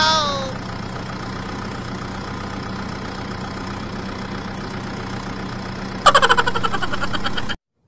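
Truck engine idling with a steady low hum. About six seconds in, a louder, rapidly pulsing buzz comes in for about a second and a half, then everything cuts off abruptly.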